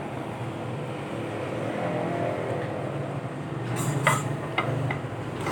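Steady low background hum of a running motor or road traffic, with a few short sharp clicks a little past the middle.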